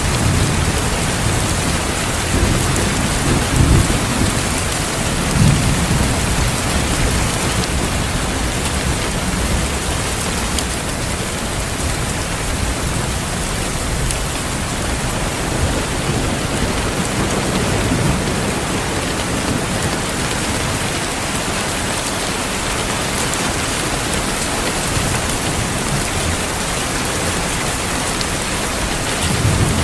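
Steady heavy rain with rolls of thunder: low rumbles swell a few seconds in, again around the middle, and near the end.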